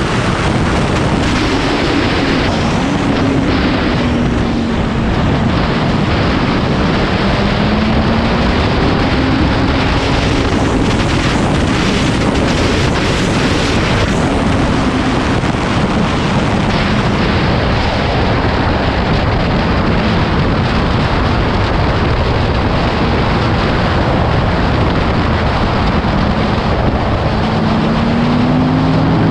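Motorcycle engine running under way, its pitch falling, rising and falling again with the throttle, and climbing once more near the end, under heavy wind rush over the microphone.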